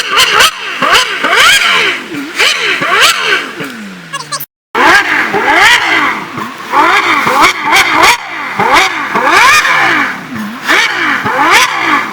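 Supercar engines being revved hard, the pitch shooting up and dropping back again and again, several times a second. About four and a half seconds in, a falling note ends in a brief silence, and the rapid revving starts again.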